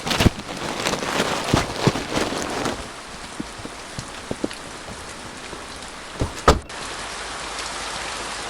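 Rain falling on an RV's roof: heavy, uneven drops hit hard for the first few seconds, then fewer and lighter drops. A single loud knock comes about six and a half seconds in, followed by a steady, even rain noise.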